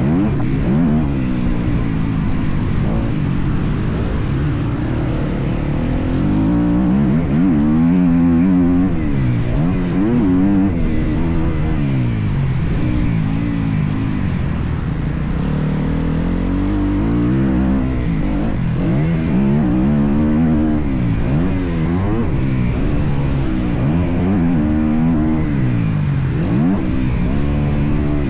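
Motocross bike engine ridden hard, its pitch climbing and dropping again and again as the throttle is opened and shut through the gears.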